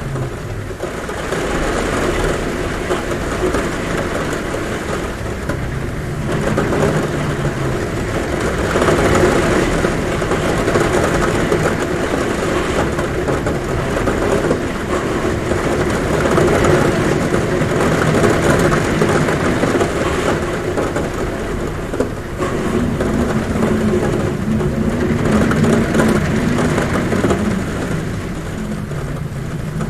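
Heavy rain falling steadily on a roof, with wind humming at a window. The noise swells and eases in waves, and a low wavering hum comes and goes.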